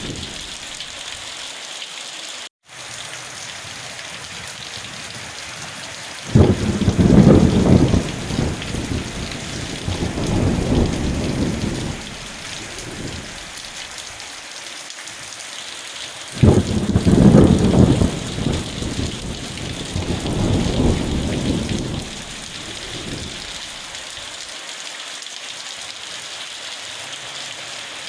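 Steady heavy rain with thunder rumbling twice, each peal starting suddenly and fading away over several seconds. A brief break in the sound comes about two and a half seconds in.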